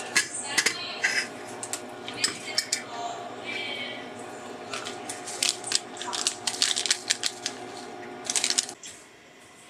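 Kitchen utensils and dishware clinking and clattering in a quick series of sharp knocks, over a steady hum that cuts off near the end.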